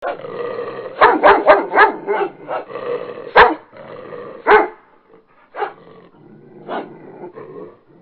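Dog barking: a quick run of four barks about a second in, then single barks at gaps of about a second.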